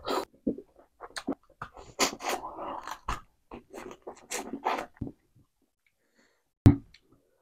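Close-up wet chewing and lip-smacking of a person eating chicken with his hands, in quick irregular smacks for about five seconds. Then it goes quiet, broken by a single sharp thump near the end.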